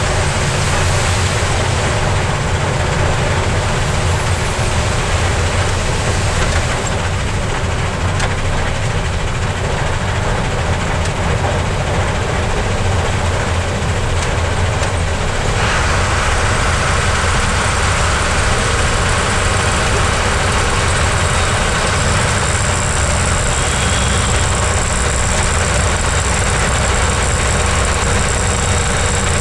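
Heavy truck's diesel engine running steadily under load, with a deep rumble. About halfway through, a steady hiss joins in.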